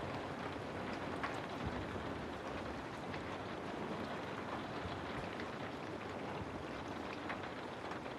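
Steady rainfall with scattered drops tapping on a surface.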